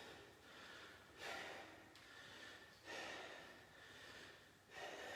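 A man breathing hard from the exertion of bodyweight exercise, with three quiet, sharp breaths about two seconds apart.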